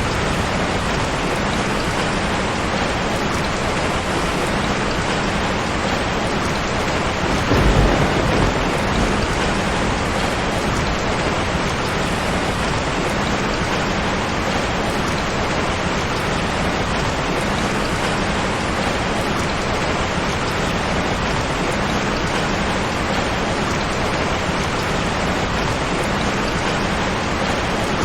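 Steady heavy rain hissing, with one brief low rumble of thunder a few seconds in.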